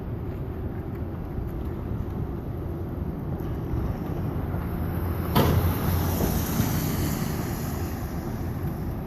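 Blizzard wind buffeting the microphone as a steady low rumble, with a sudden stronger gust about halfway through that fades over a couple of seconds.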